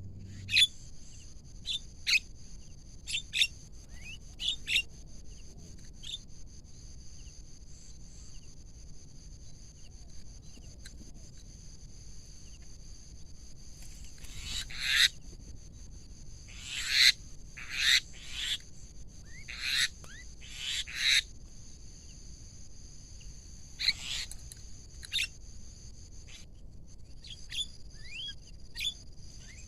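Javan mynas (jalak kebo) giving short, harsh calls, scattered at first and then coming thick and loud in the middle, over a steady high-pitched whine.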